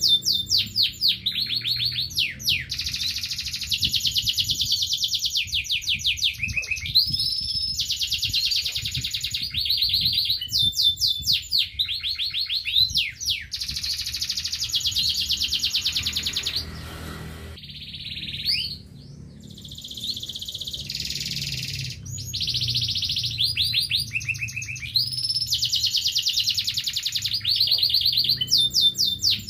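Local-bred domestic canary singing continuously: fast trills and rolls in phrases of one to three seconds, with a short pause a little past the middle.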